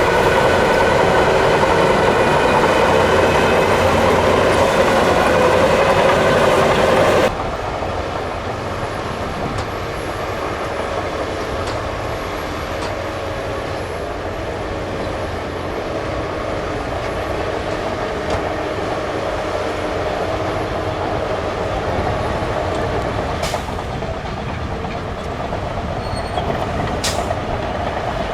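Heavy earthmoving machinery, a bulldozer and dump trucks, running with diesel engines working. The sound is loud at first, then cuts off sharply about seven seconds in to a quieter, steady engine sound, with two short sharp knocks near the end.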